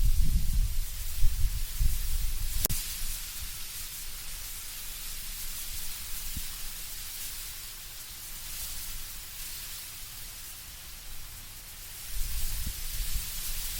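Wind blowing through trees with leaves rustling as a steady hiss, and a low gusty rumble that is strong at the start, eases through the middle and builds again near the end. A single sharp click about two and a half seconds in.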